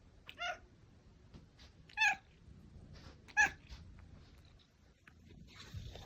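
Domestic cat meowing: three short, high meows, roughly a second and a half apart.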